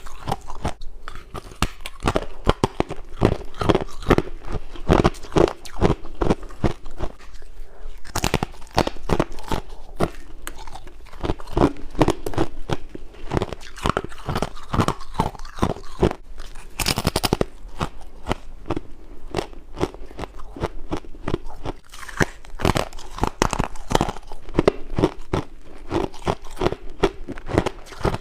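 Close-up biting and chewing of frost and ice: a dense run of sharp crunches, several a second, with one louder crackle about seventeen seconds in.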